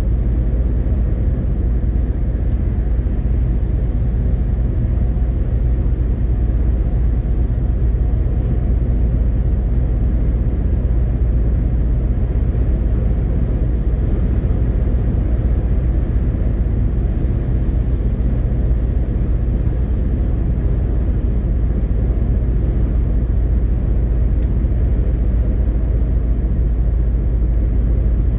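MAN TGX 18.520 truck running steadily at an even cruising pace: a constant low diesel engine and road rumble with no change in pitch. A faint thin high whine sits above it.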